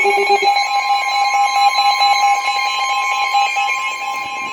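Emergency alert tone sounding steadily, the attention signal that announces a severe thunderstorm warning. A lower buzz under it stops about half a second in.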